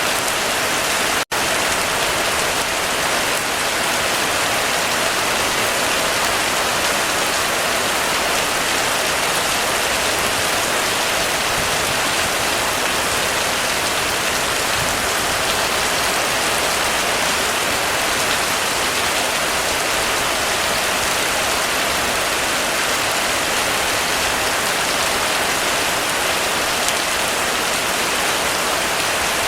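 Heavy rain falling steadily on a roof, a dense even hiss of drops. It is broken only by a split-second dropout about a second in.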